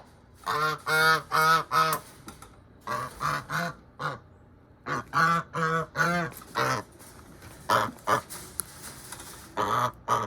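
Domestic geese honking, short calls in several quick runs with brief pauses between.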